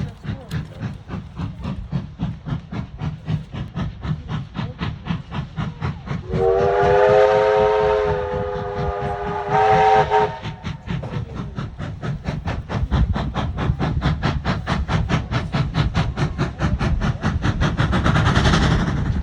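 Oil-fired 2-8-4 steam locomotive working hard, its exhaust chuffing in a steady fast beat. About six seconds in it sounds one long chime whistle of several tones for about four seconds, the blast swelling briefly near its end, and a burst of steam hiss comes near the end.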